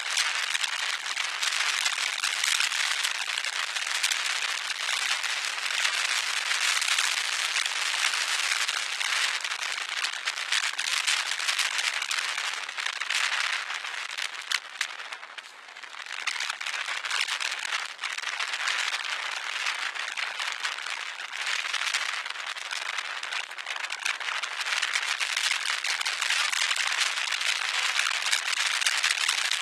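Wind buffeting the camera's microphone: a steady crackling rush that dips briefly about halfway through.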